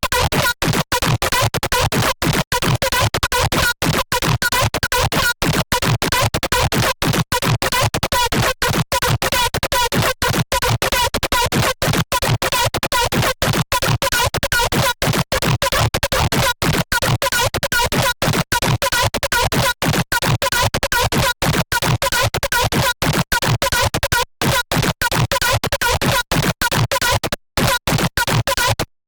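Harsh, glitchy software-synthesizer patch from a Serum wavetable made from an image, stuttering with many brief gaps over a few steady pitched tones. It cuts off abruptly near the end.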